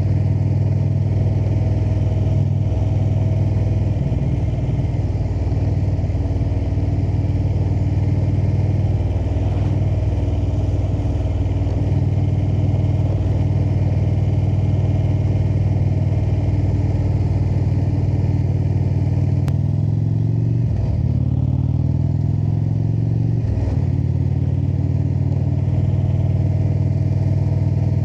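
Indian cruiser motorcycle's V-twin engine running steadily while riding along a road, with road and wind noise. About twenty seconds in, the engine note sweeps and changes pitch twice before settling again.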